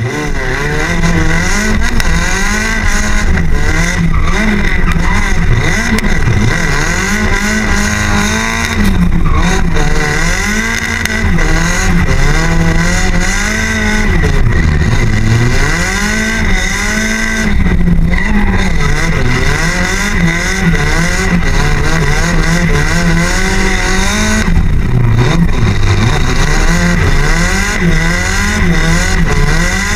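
Nissan 180SX's turbocharged SR20DET four-cylinder engine revving hard, heard close up over the open engine bay; its pitch climbs and drops over and over as the throttle is worked through a drift course.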